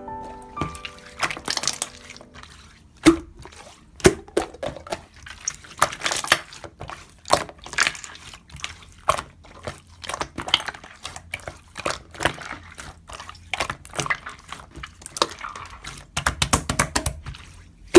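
Slime being squeezed and pressed by hand, giving irregular wet clicks and pops, with a denser run of crackles near the end.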